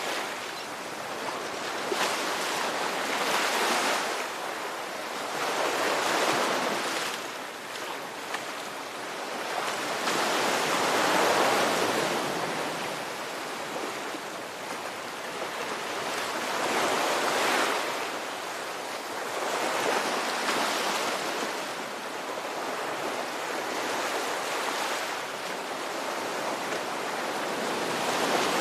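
Ocean waves breaking and washing on a shore, a continuous hiss of surf that swells and eases every few seconds.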